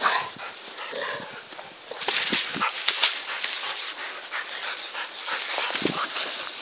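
Shepherd dogs mauling a boar: dog noises over a dense crackle of scuffling and rustling.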